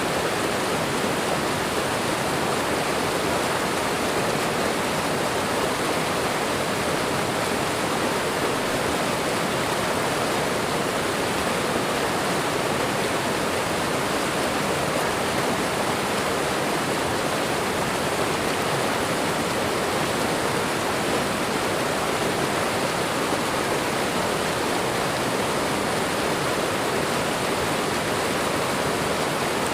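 Waterfall and running water rushing steadily, an even, unbroken wash of sound.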